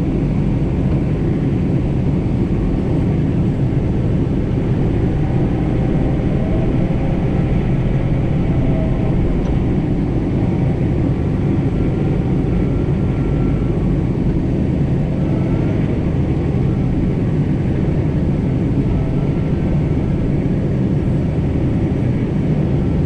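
John Deere 4066R compact tractor's diesel engine running steadily under load while moving snow, heard as an even rumble.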